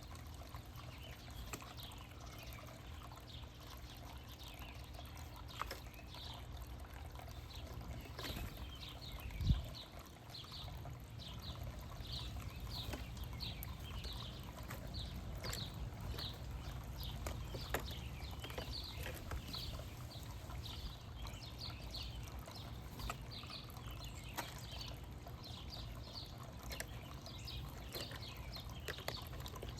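Backyard songbirds chirping in short, high, repeated notes, about one or two a second, over a steady low rumble, with a single low thump about nine and a half seconds in.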